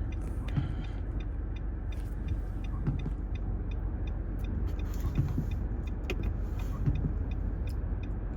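Steady low road and engine rumble inside a moving car's cabin. Over it a turn-signal indicator ticks evenly, about three clicks a second.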